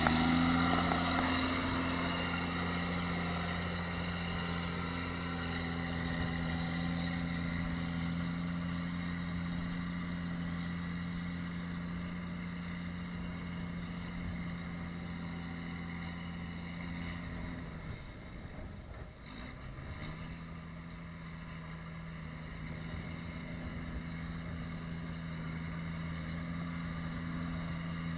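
Tractor engine running steadily at an even speed. About eighteen seconds in its note sags and breaks for a couple of seconds, as if under load, then settles back to a steady run at a slightly lower pitch.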